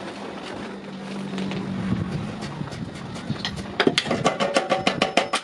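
A steady mechanical hum, then, about four seconds in, rapid hammer blows on iron, about five or six a second, each ringing briefly.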